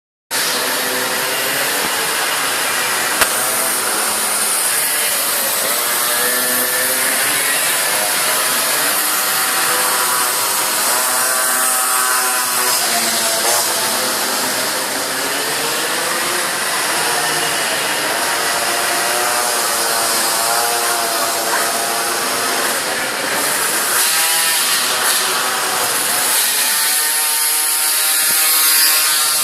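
Several small minibike engines racing, their pitch rising and falling continually as the riders rev, shift and pass.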